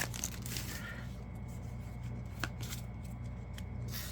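Yu-Gi-Oh! trading cards from a freshly opened booster pack being slid and flipped through by hand: a soft rustle, then a few scattered faint card flicks over a steady low hum.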